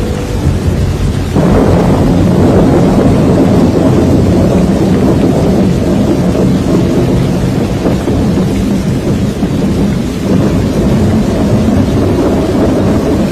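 Hurricane wind and heavy rain: a loud, continuous low rumbling rush that swells louder about a second and a half in and stays there.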